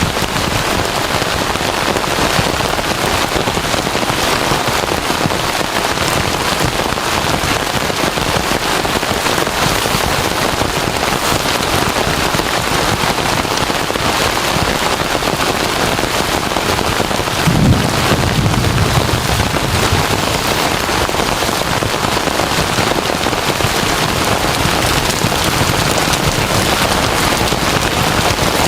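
Heavy rain pouring steadily. About two-thirds of the way through, a low rumble of thunder rises and fades over a few seconds.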